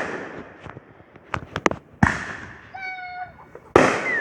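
Aerial fireworks bursting overhead: sharp bangs about two seconds apart, each trailing off in an echoing rumble, with a few lighter pops between them. A short high-pitched tone sounds about three seconds in.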